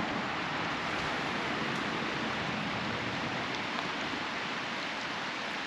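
Small creek flowing, a steady rush of running water.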